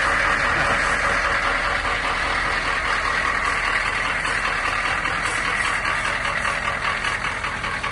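2005 AM General M1097R1 Humvee's V8 diesel engine idling steadily seconds after a cold start, its level easing slightly as it settles.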